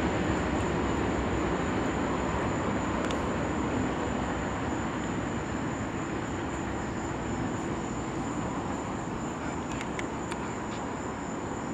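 Freight train cars rolling past on the rails, a steady rumble and rattle that slowly fades.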